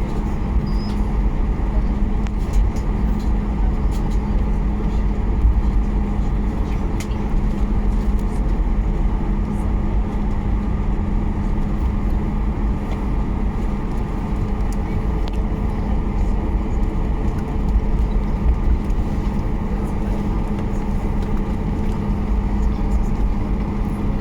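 Steady cabin noise inside a Boeing 737 on the ground before takeoff: a deep, even rumble with a constant hum from the running engines and cabin air system.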